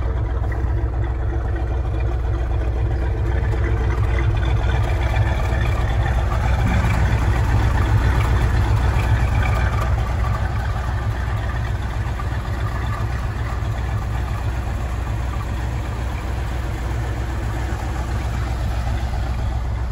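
A 1967 Mustang's 390 cubic-inch FE V8 idling steadily through its dual exhaust, a little louder for a few seconds near the middle.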